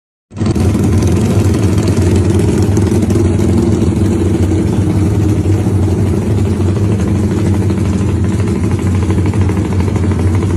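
Yamaha Y15ZR motorcycle's single-cylinder engine idling steadily and loudly through its exhaust, tuned with 'timing kuda' ignition timing. The sound cuts in abruptly a moment in.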